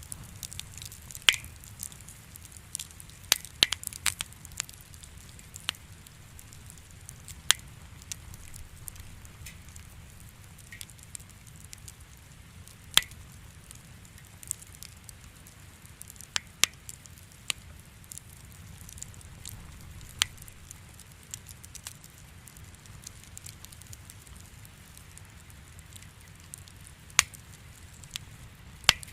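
Wood fire crackling in a fireplace: a low steady rumble of burning with irregular sharp pops and snaps scattered through it.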